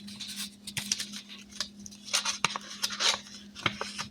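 Paper being handled: rustling, scraping and small ticks of paper bills and an envelope shuffled by hand.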